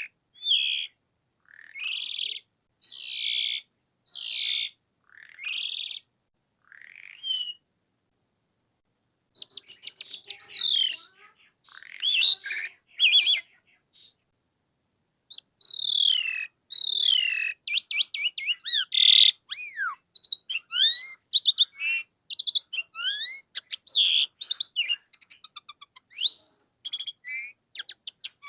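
Javan pied starling (jalak suren) singing. It begins with a run of separate harsh calls about once a second, then after a short pause goes into a long, varied song of rapid clicks and rising and falling whistles.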